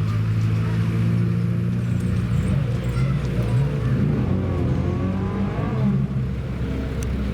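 Banger racing car engines running steadily, with an engine's pitch rising and falling around the middle.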